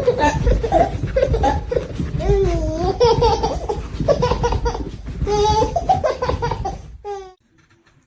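Loud human laughter, with a low rumble under it; it cuts off about seven seconds in.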